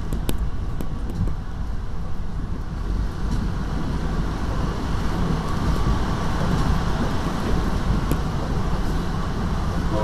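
Steady rolling rumble of an NJ Transit Comet IV passenger car running at speed, heard from inside the coach: wheels on rail with a few sharp clicks in the first second or so.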